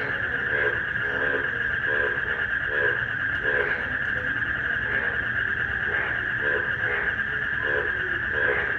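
Frogs croaking in a regular rhythm, a call about every three-quarters of a second, over a continuous high trill of crickets and a steady hiss of rain.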